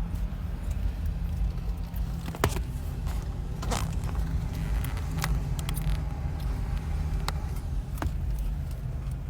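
Steady low rumble of a car heard from inside the cabin, with a few sharp clicks scattered through it.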